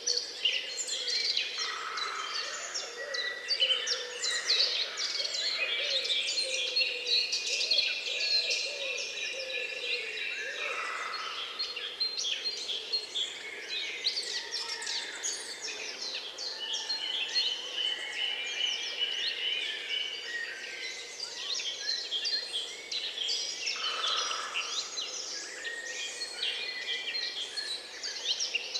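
A dense chorus of many songbirds chirping and singing over one another, with quick high chirps and trills that never stop.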